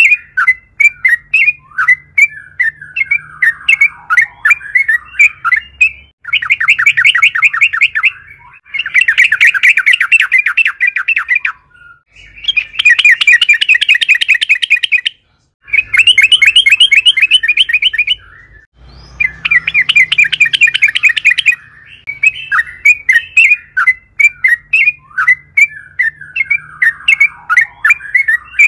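Yellow-vented bulbul (trucukan) singing loudly: scattered chirping notes at first, then five long rapid rolling trills of two to three seconds each, separated by short pauses, then scattered chirps again near the end.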